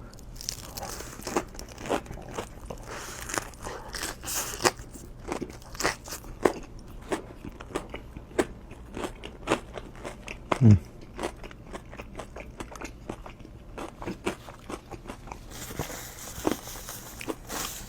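Chewing and crunching a mouthful of onion ring and chili dog: irregular crisp crunches and wet mouth clicks, with a short low falling hum about ten seconds in.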